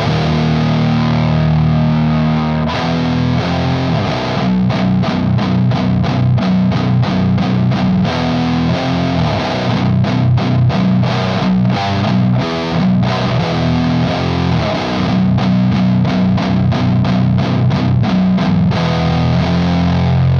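Distorted electric guitar tuned to B standard, with passive pickups, played through an FGE The Mountain pedal in distortion mode into a Sunn Beta Lead amp. It plays a heavy doom riff: held low chords at first, then a long run of rapid, repeated chugs from about four seconds in.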